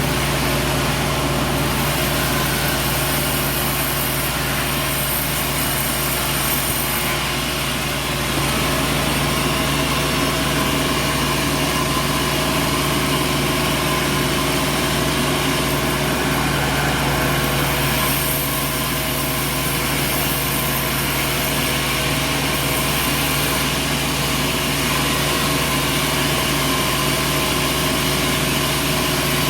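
Sawmill machinery running steadily: a constant engine-like drone with several unchanging hum tones, slightly louder from about eight seconds in.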